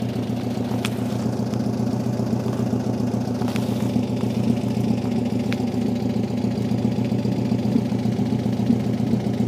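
A 1970 Volkswagen Beetle's 1800cc air-cooled flat-four with headers idling steadily, with a few faint clicks over it.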